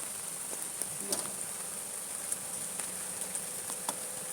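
Rain falling steadily, with scattered sharp ticks of drops hitting nearby surfaces over an even, high hiss.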